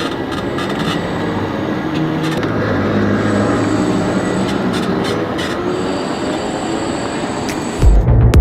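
Electric concept car pulling away under power, its drive whining in several tones that rise and fall in pitch over road and crowd noise. Near the end it cuts suddenly to loud, low, pulsing music.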